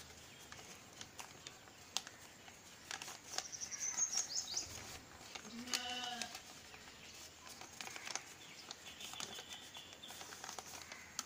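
Faint scattered handling clicks, with small birds chirping in the background and one short animal bleat about six seconds in.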